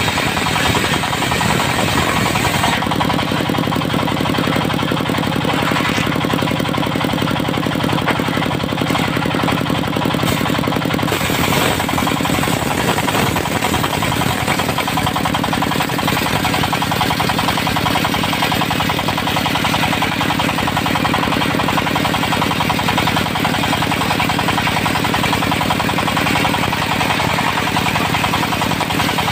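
An engine running steadily with a fast, even pulsing beat. It changes tone slightly about three seconds in and again about eleven seconds in.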